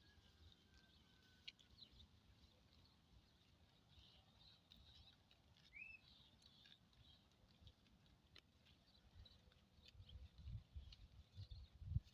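Faint, scattered bird chirps over quiet countryside ambience, one short rising chirp about halfway through. Low rumbling thuds start near the end.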